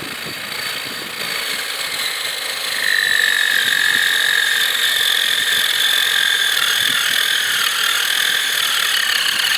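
Battery-powered RC drift car's electric motor and gears whining at full throttle in a burnout. The high, steady whine grows louder about three seconds in, then sinks slightly in pitch.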